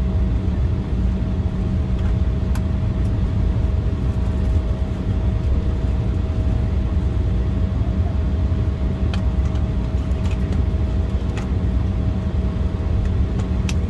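Steady jet cabin noise inside an Embraer E175 airliner: a heavy, even low rumble from the GE CF34 turbofans and airflow, with two constant hum tones running through it and a few faint clicks.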